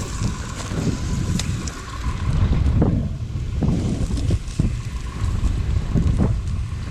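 Oliver 7300 combine running while cutting wheat: a steady low machine rumble with irregular swells of wind noise on the microphone.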